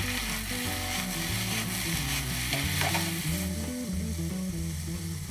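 Diced potatoes and peppers sizzling in hot oil in a nonstick frying pan while being stirred with a spoon; a steady hiss that thins a little past the midpoint.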